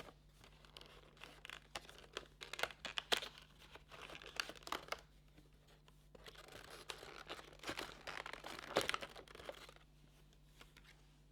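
Packaging of a makeup advent calendar being torn open and crinkled by hand, in irregular rustling bursts with a short lull near the middle.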